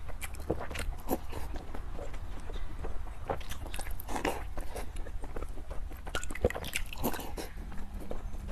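Close-miked biting and chewing of soft, milk-soaked sponge cake: irregular wet mouth clicks and smacks.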